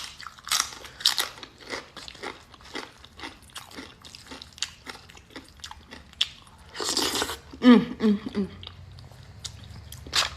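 Close-miked crunching and chewing of crisp tortilla chips: a quick run of sharp crunchy bites and chews. A louder crunch comes about seven seconds in, followed by a short hummed voice sound.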